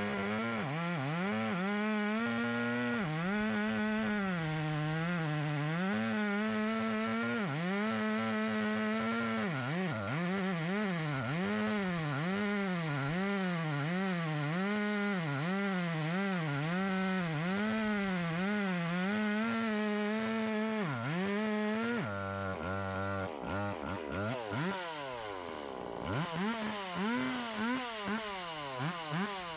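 Large gas chainsaw cutting into a big tree, its engine speed sagging and recovering over and over under load. About 22 seconds in it drops toward idle, then is revved in short, uneven bursts.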